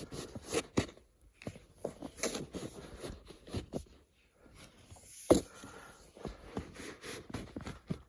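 Irregular handling noises: crunches, scrapes and knocks at an uneven pace, with one sharp knock about five seconds in.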